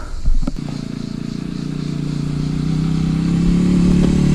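Small-displacement motorcycle engine coming in after a click about half a second in, then running steadily and growing slowly louder.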